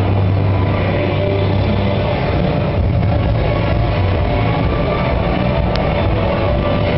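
Blue Bird school bus engine running, a steady low drone whose deep hum shifts a little under three seconds in.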